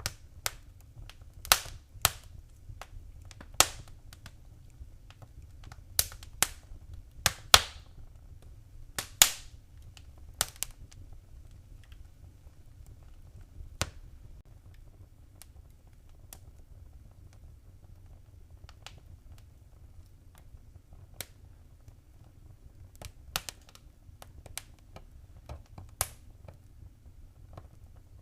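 Fireplace fire crackling: irregular sharp pops, a cluster of them in the first ten seconds and then fewer and further apart, over a low steady rumble.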